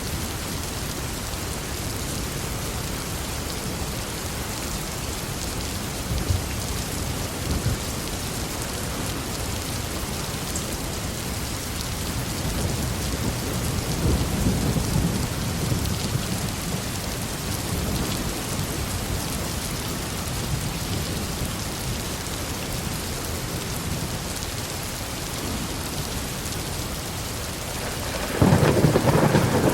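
Heavy rain falling steadily with low rolling thunder, which swells about halfway through. Near the end a much louder peal of thunder breaks in suddenly.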